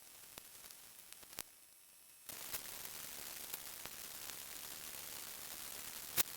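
Faint steady hiss with scattered small clicks. The hiss jumps louder a little over two seconds in, and a sharper click comes near the end.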